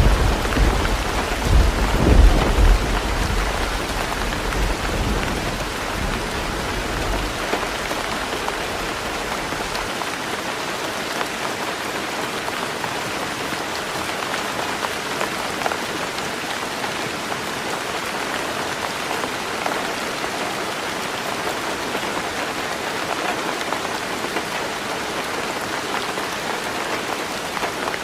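Heavy rain drumming steadily on a tin roof. A deep rumble of thunder swells at the start and again about two seconds in, then dies away over the next several seconds, leaving only the rain.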